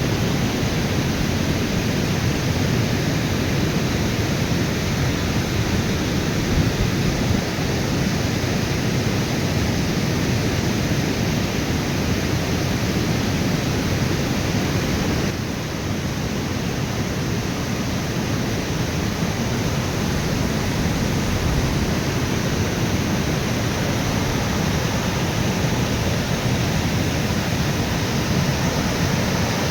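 Waterfall rushing: a steady noise of falling water that drops a little in level about halfway through.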